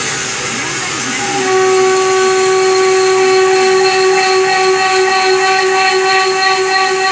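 CNC lathe tool chattering during an internal roughing cut on a DS38 box connection: a steady high whistle with overtones that grows louder about a second and a half in. The machinist puts the vibration down to something that may be worn.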